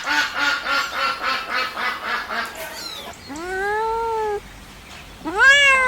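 Kittens mewing to nurse. A rapid run of short, repeated mews, about four a second, is followed by two long mews that rise and then fall in pitch, the second of them the loudest.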